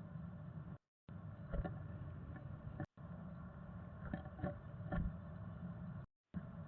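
Steady low electrical hum from a bird box camera's built-in microphone, with a few soft knocks and scratches from inside the box. The sound cuts out completely three times for a moment: dropouts in the camera's audio stream.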